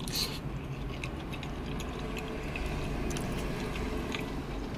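A man chewing a mouthful of breaded eggplant parmesan and spaghetti: soft wet mouth sounds and small clicks over a low steady hum.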